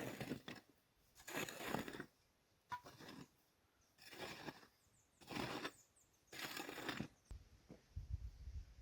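Repeated scraping strokes of a hand tool working dirt as the ground is cleared, six strokes about one to one and a half seconds apart, followed near the end by low thumping.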